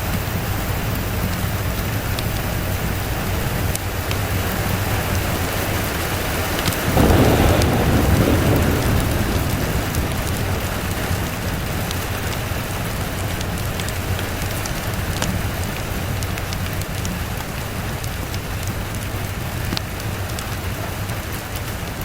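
Steady rain falling, with a roll of thunder breaking in about seven seconds in and rumbling away over the next few seconds.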